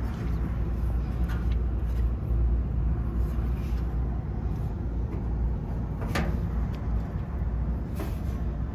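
Steady low rumble with a few light knocks and clicks, the clearest about six seconds in, from hands handling the motor wiring inside a switched-off rooftop unit.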